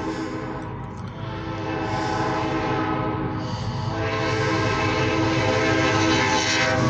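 CSX freight locomotive's air horn sounding a long, nearly unbroken chord that changes in tone about four seconds in, growing louder as the train approaches.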